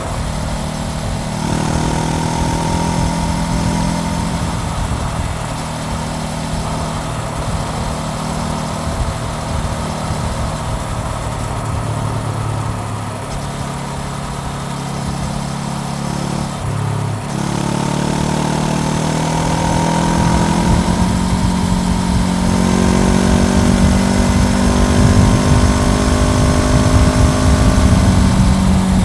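Honda CBR400R's parallel-twin engine running on the move, the pitch stepping at gear changes. After a brief break about 17 seconds in, the revs climb and hold higher, getting louder toward the end.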